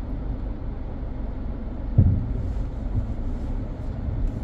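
A car driving on a road, its steady low road and engine rumble heard from inside the cabin, with a single low thump about two seconds in.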